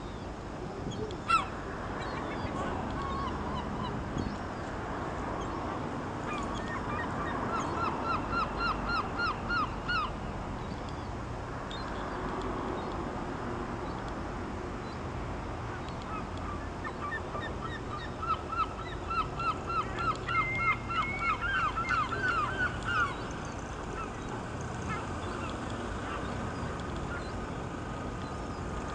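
Bird calls in two rapid bouts, nasal notes repeated about four or five times a second, over a steady background hiss. There is one sharp click about a second in.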